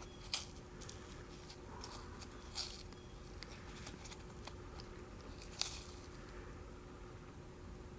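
Faint handling noises from a cut-open oil filter's pleated element being pulled apart and inspected: soft crinkling with three sharper clicks spread a few seconds apart, over a faint steady hum.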